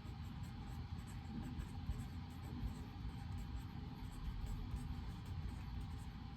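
Study-room ambience: a steady low hum with faint, frequent light scratches and ticks of a pen writing on paper.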